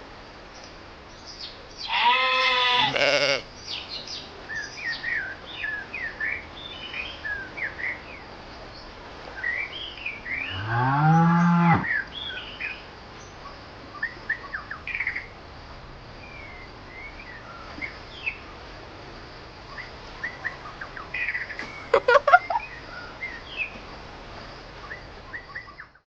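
Farm ambience. Livestock give two long bleating calls, one about two seconds in and one about ten seconds in, the second rising in pitch. Small birds chirp throughout, and there are a few quick clicks about 22 seconds in.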